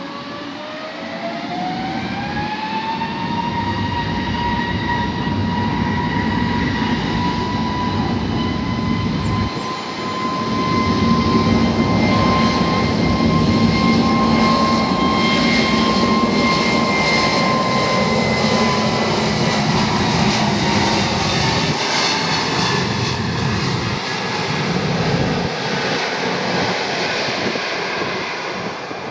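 Airbus A321neo jet engines at takeoff: the fan whine rises in pitch over the first few seconds as the engines spool up, then holds steady over a loud rumble. The sound is loudest in the middle as the jet passes, the whine dropping slightly in pitch after that, then fades near the end.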